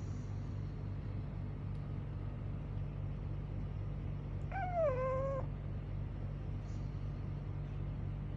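A bulldog snoring with a steady low rumble, and about halfway through one short, high whimper that falls in pitch.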